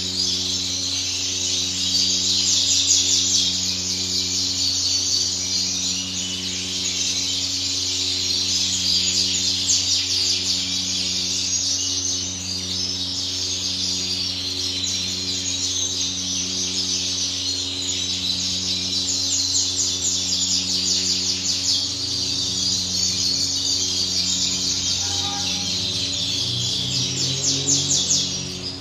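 Several caged finches chirping and twittering continuously, with a steady low hum under them.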